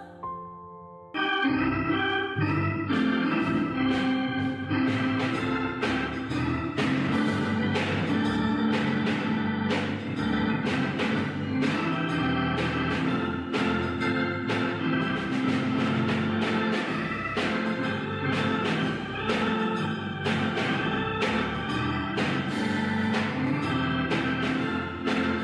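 Organ playing an instrumental piece. A short held note is followed, about a second in, by a steady flow of chords and melody notes.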